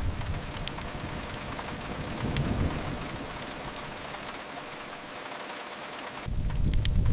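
Steady hiss of rain with a few sharp fireplace crackles. A low rumble swells about two seconds in and fades, then a loud deep rumble with sharper crackles cuts back in abruptly near the end.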